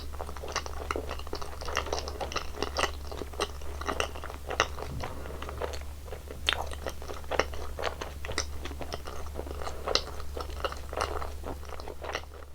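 Close-miked chewing and crunching of sweets in the mouth, a dense run of crisp crunches and smacks over a steady low hum.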